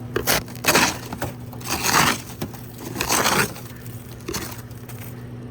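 A thick coat of ice being scraped and broken off a truck after an ice storm: several uneven scraping, crunching strokes, over a steady low hum.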